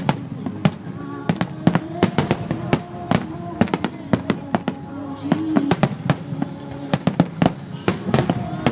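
Aerial firework shells bursting in quick succession, several sharp bangs a second, over music playing from loudspeakers.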